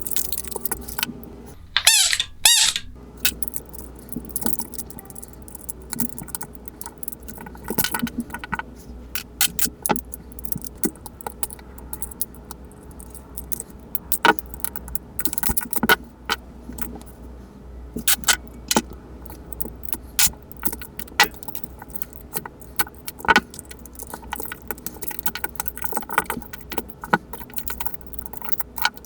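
Small hard parts clicking and tapping irregularly as a battery-powered plush toy is taken apart by hand, with a louder scraping squeak about two seconds in.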